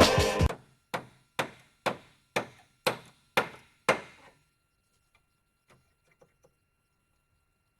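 A run of seven sharp knocks, about two a second, each with a short ring, stopping about four seconds in.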